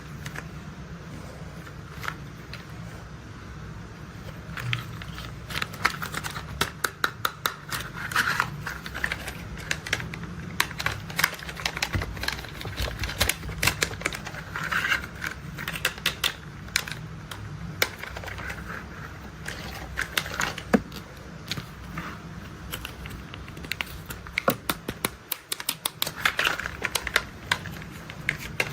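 Hard plastic toy construction vehicles being handled and tapped: quick runs of small clicks and taps in bursts, over a low steady hum.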